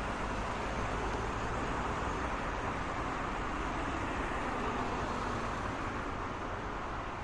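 Road traffic noise: a steady wash of passing cars and tyre noise with a low engine rumble, easing off slightly near the end.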